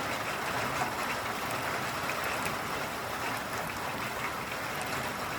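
Steady rushing water noise with faint scattered patters, even in level throughout.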